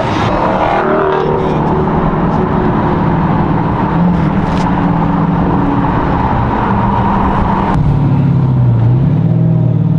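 A car doing a burnout: the engine is held at high revs, its pitch wavering up and down, with a dense rushing noise from the spinning tyres over it. It is loud throughout.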